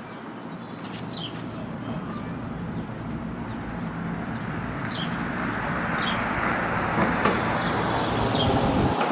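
Passing road traffic, its noise swelling steadily as a vehicle draws near, while a bird gives short, falling chirps several times.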